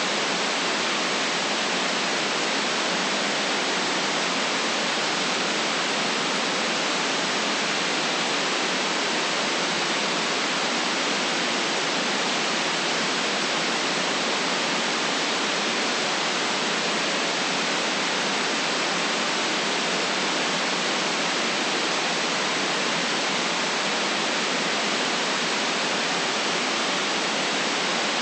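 Steady white noise for sleep: an even, unchanging hiss with little deep bass and no other sounds.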